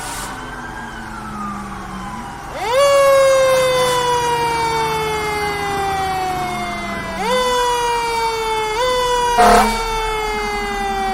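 Fire truck siren winding up quickly twice, about two and a half and seven seconds in, each time then slowly dropping in pitch as it winds down, with a short loud horn blast near the end. A fainter siren can be heard falling in the first two seconds.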